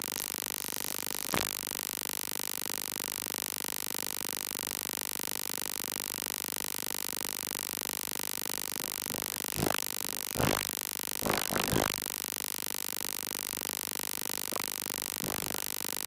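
Steady noise with a few short knocks, one early, a cluster of three or four about ten to twelve seconds in, and one more near the end.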